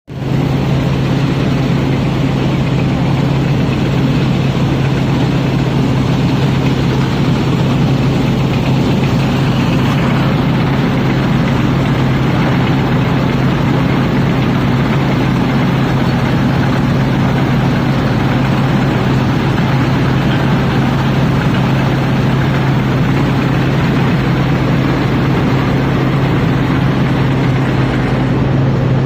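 Thai Seng 'Jao Payu 4.0' rice combine harvester's engine running steadily at a constant speed, a loud, even drone.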